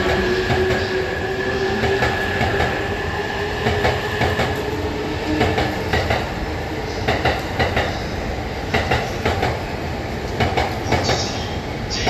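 Electric train moving along a station platform. A drawn-out tone rises slightly and fades about halfway through, then wheels click rapidly over the rail joints.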